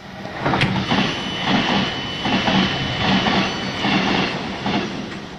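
A train passing close alongside, heard from inside a moving train: a loud rush of wheels and air with rhythmic wheel clacks, about three a second, and a steady high whine, fading near the end.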